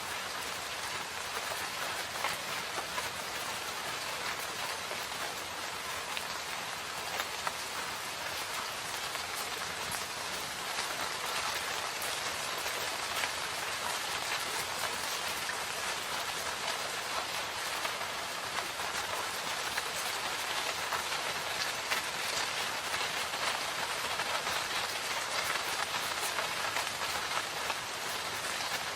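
Steady rain falling in a forest, a dense even hiss with many individual drops pattering on leaves and surfaces.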